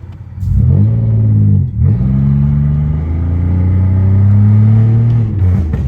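Tuned, catless Pontiac Grand Prix GT's V6 exhaust under acceleration: the revs climb, dip sharply just before two seconds in, then climb steadily again before falling off near the end.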